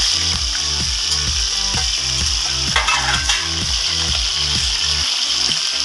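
Rabbit tapa frying in hot oil in a pan: a steady sizzle, with a brief louder crackle about three seconds in. Background music with a steady beat plays underneath.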